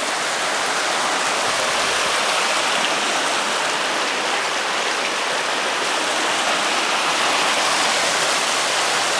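Creek water rushing over and between rocks, a steady, even rush.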